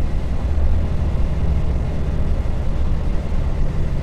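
Dongfeng truck's diesel engine and road noise heard from inside the cab while driving: a steady low drone with no separate knocks standing out.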